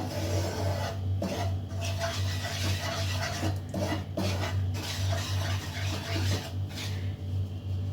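A utensil stirring and scraping besan and chilli powder frying in oil in a frying pan, in repeated rasping strokes with short pauses between them.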